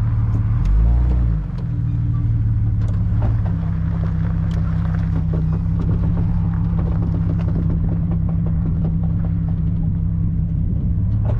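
Car engine running at low speed with a steady low drone and a brief deeper surge about a second in, with scattered knocks and rattles as the car creeps over a rough dirt track.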